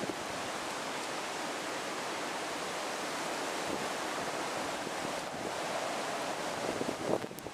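Strong gusty wind and heavy rain, a steady rushing noise, with wind buffeting the microphone. A few short rustles or taps come near the end.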